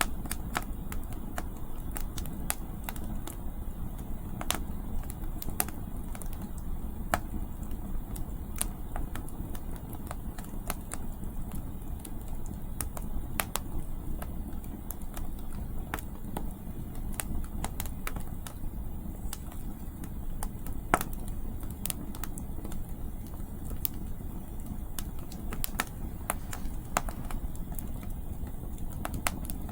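Firewood crackling and popping in an outdoor campfire, irregular sharp pops scattered over a steady low rumble of wind on the microphone.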